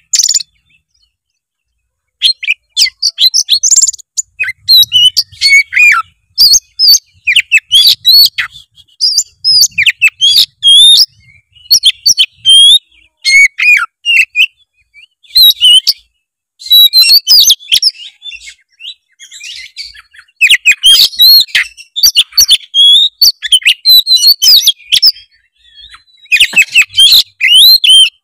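Oriental magpie-robin (kacer) singing in a loud, fast flow of varied high whistled phrases full of mimicked fills, broken by short pauses. The song starts about two seconds in.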